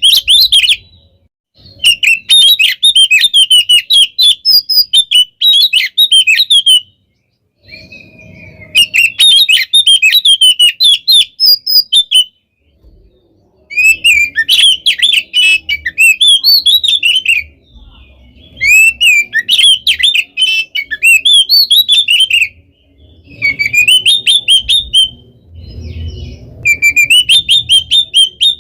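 Oriental magpie-robin (kacer) singing hard: loud, rapid runs of varied chirps, whistles and trills, delivered in bursts of two to five seconds with brief pauses between them.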